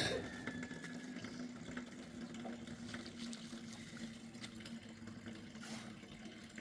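Water running, with a steady low hum under it and a few light clicks. A sharp knock sounds right at the start.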